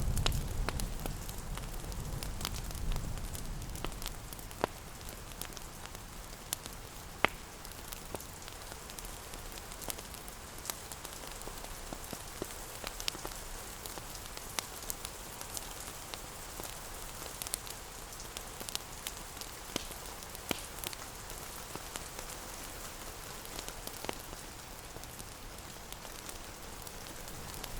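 Steady rain pattering, with scattered sharp crackles and pops from a wood fire. A low rumble fades away over the first few seconds.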